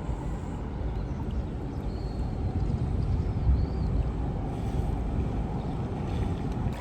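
Steady rush of flowing river water, with low wind rumble on the microphone.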